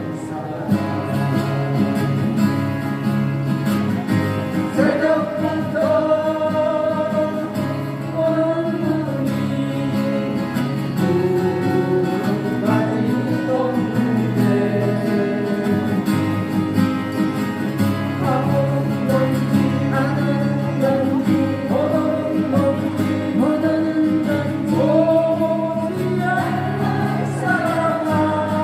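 A live acoustic guitar band playing a song with a singer, through a PA system, with a steady bass line under the sung melody.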